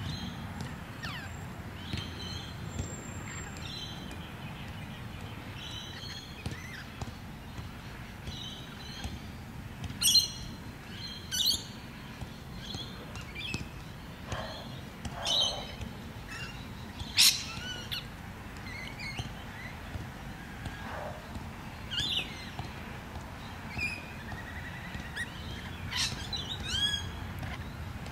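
Birds chirping: scattered short calls and quick rising and falling chirps, a few louder ones standing out, over a low steady background noise.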